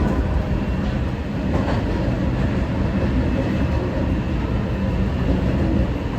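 Kita-Osaka Kyuko 9000 series electric train running, heard from inside the front car: a steady rumble of wheels on rail with a few faint track clicks a second or so in.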